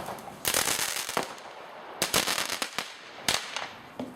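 Fireworks going off: two spells of dense crackling, about half a second in and again about two seconds in, and a single sharp bang just past three seconds.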